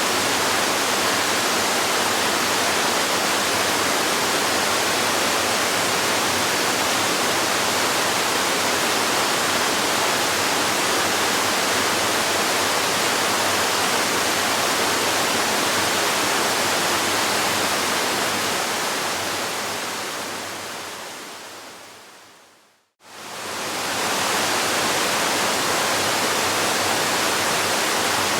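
Waterfall rushing in a steady, even spray of white noise. Near the end it fades away over several seconds to a moment of silence, then swells straight back in as the recording loops.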